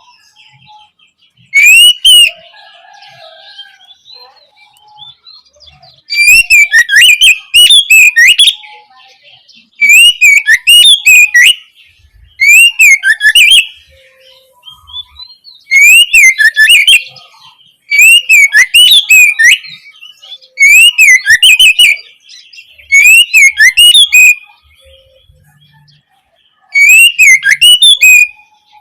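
Oriental magpie-robin (kacer) singing: about nine loud, quick phrases of whistled notes that sweep up and down, each a second or two long, with short pauses between them holding only faint calls.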